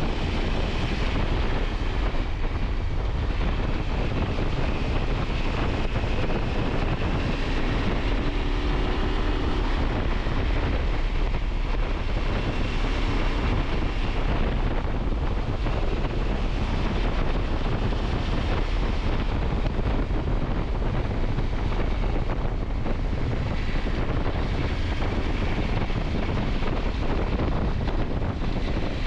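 Wind buffeting the microphone of a motorcycle on the move, with the KTM 890 Adventure's parallel-twin engine running underneath. Steady throughout, without clear gear changes or revving.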